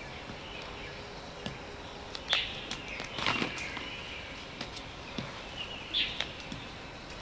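Outdoor ambience with a few short bird chirps, about two, three and six seconds in, among scattered sharp clicks and snaps.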